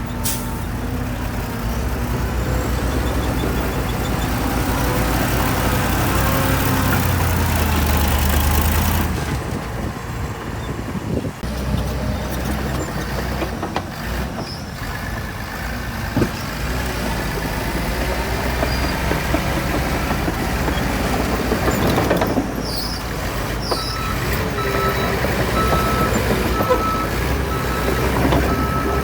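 Heavy diesel earthmoving machinery running under load, a deep steady engine drone. Near the end a reversing alarm starts beeping steadily.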